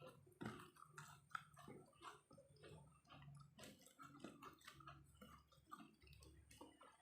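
Faint chewing and wet mouth clicks from a person eating, in irregular small smacks several times a second.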